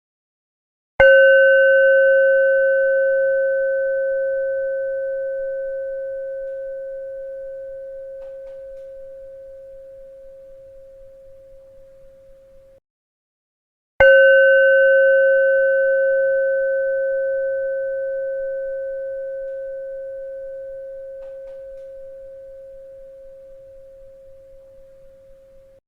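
A bell struck twice, about 13 seconds apart. Each strike rings with one steady mid-pitched tone and a few fainter higher overtones, fading slowly for about twelve seconds, then cuts off abruptly into a moment of silence before the next strike.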